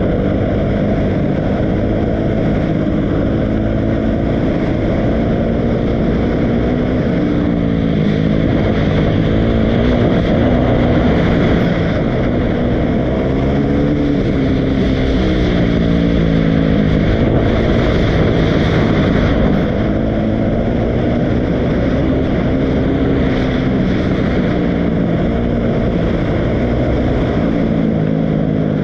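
Dirt bike engine running continuously, its pitch rising and falling again and again as the throttle is opened and closed.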